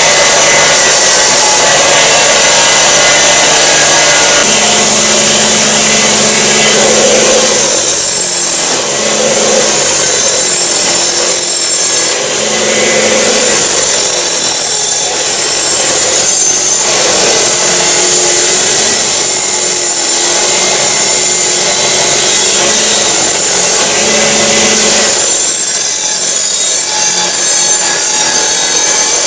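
Metal wire brush scrubbing rust and dirt off steel parts of an antique iron: a continuous rasping scratch with a few brief dips.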